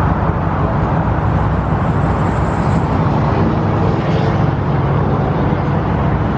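Dodge Charger Scat Pack's 392 HEMI V8 running steadily with a loud, deep exhaust rumble.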